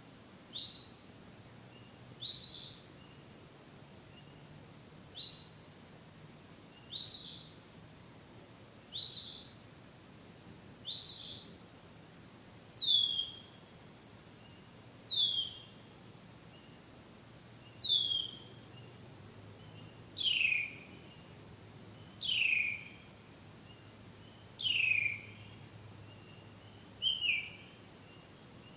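A bird calling, a single short high note about every two seconds. The early notes sound sharp and rising; from about halfway on each one is a clear downward slur.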